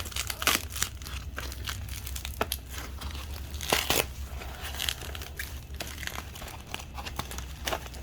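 Packaging crinkling and rustling in the hands, with short tearing strokes, as a wrapped item is handled and pulled open; a louder tear about four seconds in.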